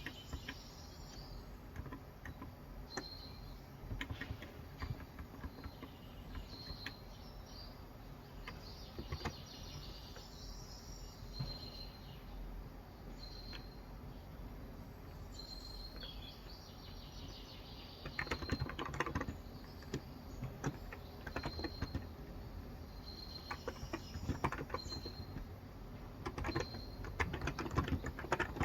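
Typing on a COX Endeavor electro-capacitive keyboard with 35 g switches: scattered keystrokes, with bursts of quicker typing about two-thirds of the way in and near the end. Birds chirp in the background, with short high chirps repeated every second or two.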